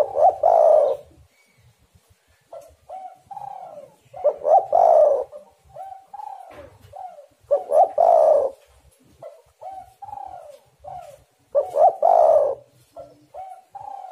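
Spotted dove (tekukur) cooing: a loud, rolling coo phrase about every four seconds, with several short, softer coos between them.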